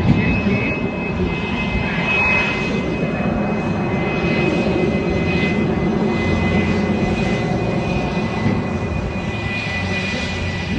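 Twin-engine Sukhoi fighter jets flying a display, a steady loud rush of jet engine noise with a thin high whine over it.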